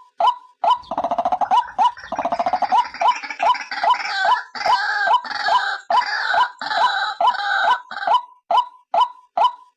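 White-breasted waterhen (ruak-ruak) calls played as a bird lure: short notes repeated about three a second, with a stretch of harsh, rapid, overlapping croaking calls from about one second in until near the end.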